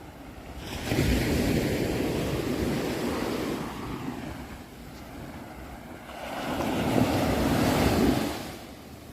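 Sea waves breaking and washing up the shore, two waves in turn: one surges in about a second in, the other near the end.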